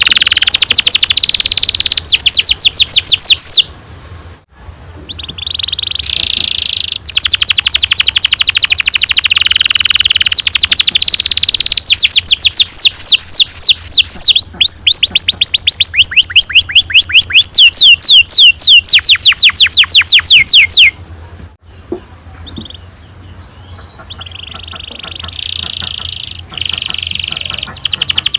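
Domestic canary singing long rolling trills, runs of rapid repeated notes, with two short breaks of quieter twittering.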